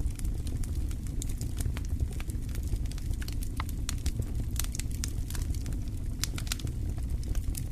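Wood fire crackling in a fireplace: frequent sharp pops and snaps at an irregular pace over a steady low rumble of the flames.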